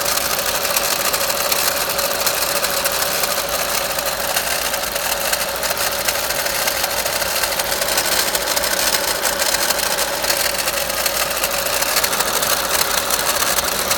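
VW Golf Mk5 1.4 TSI twincharged four-cylinder engine running with a steady rattle, which the owner traces to the water pump and its supercharger magnetic clutch.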